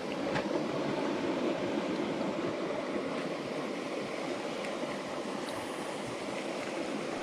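Steady rush of a jungle stream's water flowing over rocks.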